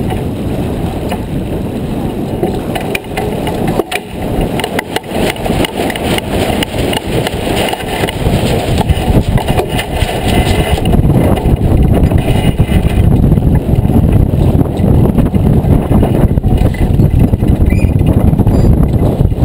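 Wind buffeting the microphone aboard a sailboat under way: a dense, low rumble with a few short knocks, growing louder about ten seconds in.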